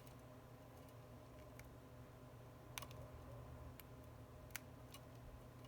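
Faint, sparse clicks and ticks of small repair tools against the broken phone and its cracked glass, about six spread over several seconds, over a low steady hum.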